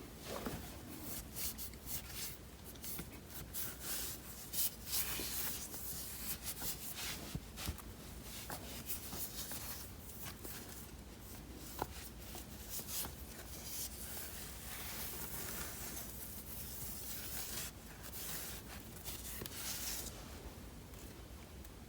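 A damp microfibre cleaning cloth wiping a car's surface by hand, in repeated soft, irregular rubbing strokes. One sharp light tap about twelve seconds in.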